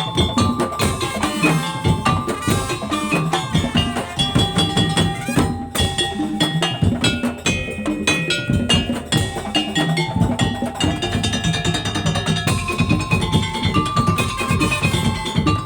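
Madurese tong-tong (daul) ensemble playing: a dense, driving rhythm of wooden slit-drum knocks and drums, with held melodic notes over the top.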